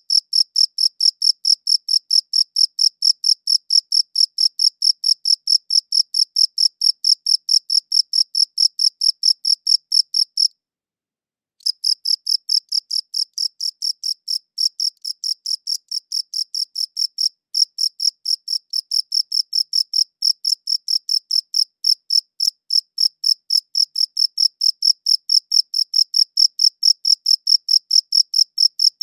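A cricket chirping steadily: a high, pure note pulsed about three to four times a second, stopping for about a second partway through before resuming.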